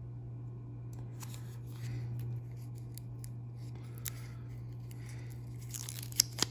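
Small handling clicks as a sticker on a toy car's packaging is picked at by hand: a few faint isolated clicks, then a quick cluster of sharp clicks near the end. A steady low electrical hum sits underneath.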